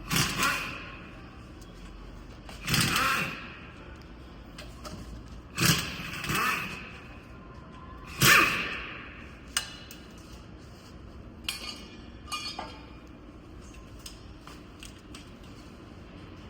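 Metal clanking: four loud clatters about three seconds apart, each ringing briefly, then a few lighter clicks, over a steady background hum.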